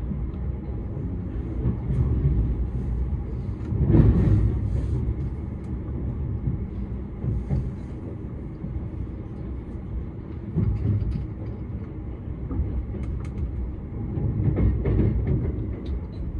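Running noise of an electric limited express train heard inside the passenger cabin: a steady low rumble of wheels on rail, swelling louder about four seconds in and again near the end.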